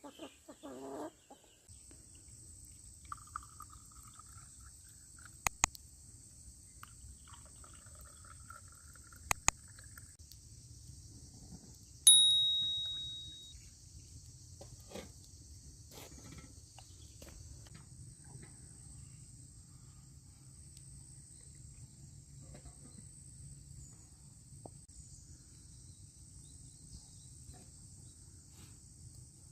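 Crickets trilling steadily over a low outdoor rumble, with a few sharp clicks and, about twelve seconds in, one loud clink that rings and dies away.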